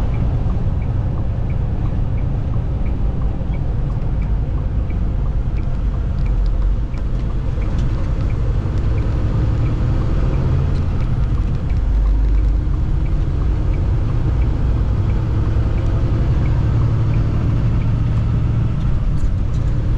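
A semi truck driving at highway speed, heard from inside the cab: a steady low rumble of engine and road noise. Faint, evenly spaced ticks run through the first several seconds.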